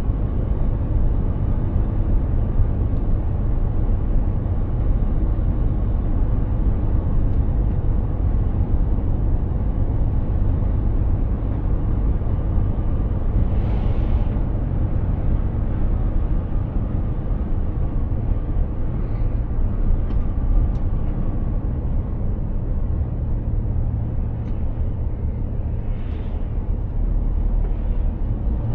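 Mercedes-Benz Actros 2763 heavy truck driving: a steady low rumble of its diesel engine and road noise. A couple of brief faint hisses pass over it.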